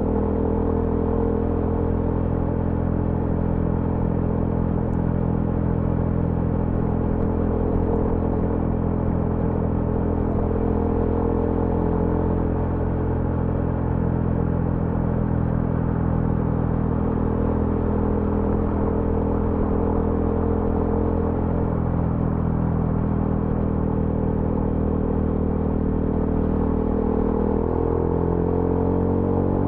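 TVS Apache RTR 200 4V's single-cylinder engine running at a steady, even speed under way, its pitch rising in the last few seconds as the bike accelerates.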